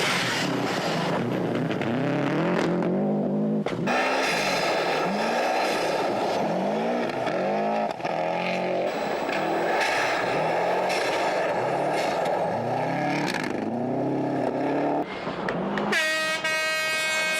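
Subaru Impreza 555 WRC's turbocharged flat-four rally engine revving hard, its pitch climbing and dropping over and over through the gears, with abrupt jumps between passes. Near the end a steady, evenly pitched tone takes over.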